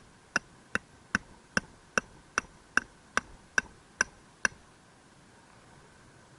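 Hammer driving a steel tent peg into the ground: about a dozen even, sharp strikes, roughly two and a half a second, each with a brief metallic ring, stopping about four and a half seconds in.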